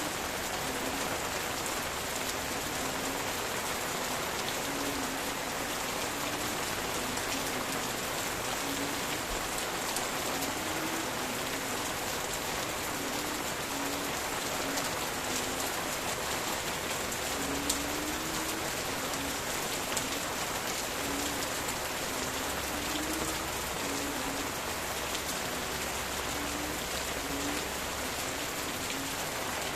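Steady rain pattering on leaves, with frogs calling in the background in short, low notes that repeat on and off.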